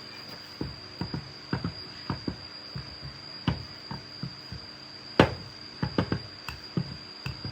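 A series of irregular knocks and taps, the loudest about five seconds in, over a steady high-pitched tone.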